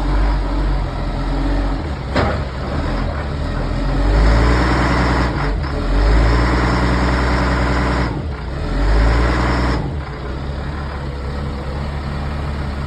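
Heavy diesel truck engine pulling away, its pitch rising, breaking off and rising again as it climbs through the gears, then settling into a steady drone about ten seconds in.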